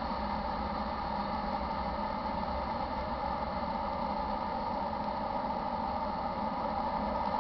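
Steady rumble of a freight train running at a grade crossing, unbroken and even, with a steady mid-pitched hum over it.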